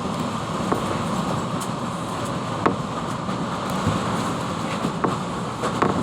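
Strong storm wind blowing with a steady, even roar, with a few sharp knocks or rattles scattered through it.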